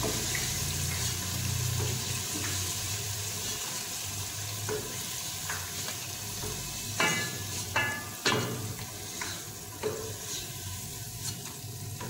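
Eggplant slices frying in hot oil in a pot, a steady sizzle, while a wooden spatula stirs them. A few sharp clicks come about seven to eight seconds in.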